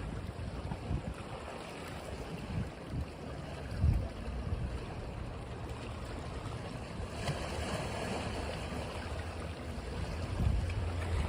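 Sea waves washing on a beach in a steady hiss, swelling about two-thirds of the way through, with wind buffeting the microphone in low rumbles.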